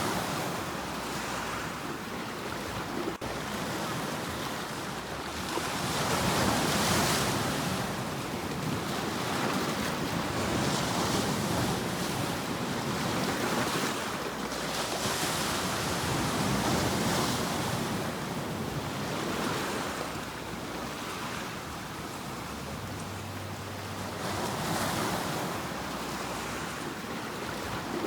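Sea waves breaking and washing onto the shore, the surf swelling and ebbing every few seconds.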